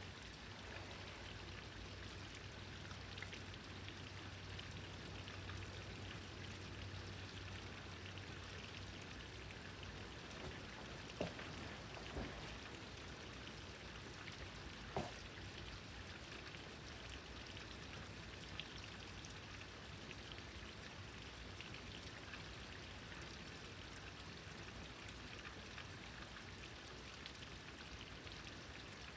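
Steady rain falling, faint, with a few sharp taps about eleven, twelve and fifteen seconds in.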